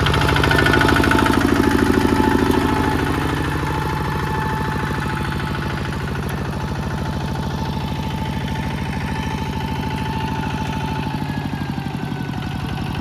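Small Kubota tractor's diesel engine running steadily with an even, rapid firing beat, a little louder for the first three seconds before settling.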